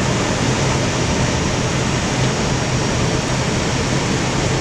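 Steady cockpit noise of an Airbus A320 on final approach in landing configuration: a constant rush of air around the flight deck, with a steady low hum underneath.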